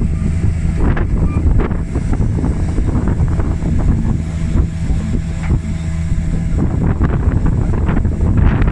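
Komatsu D61EX crawler dozer's diesel engine running steadily under load, with wind buffeting the microphone and occasional knocks. The steady engine note fades into the noise about two-thirds of the way through.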